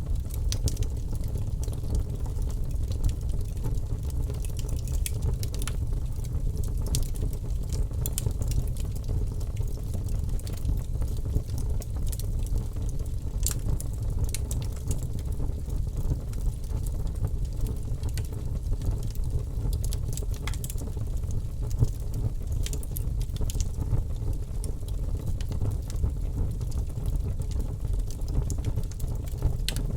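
Wood fire burning in an open fireplace: a steady low rumble of the flames with frequent sharp crackles and pops scattered irregularly throughout.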